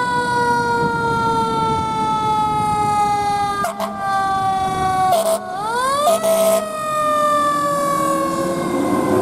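Emergency vehicle siren wailing. Its pitch falls slowly, short loud blasts cut in about four and five seconds in, then the pitch climbs again and falls slowly. A low vehicle rumble runs underneath.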